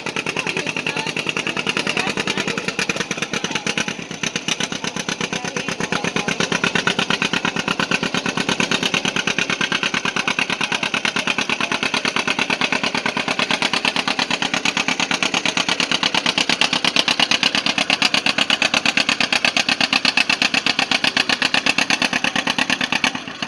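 John Deere G's two-cylinder engine pulling hard under load, its exhaust a rapid, even popping that holds steady.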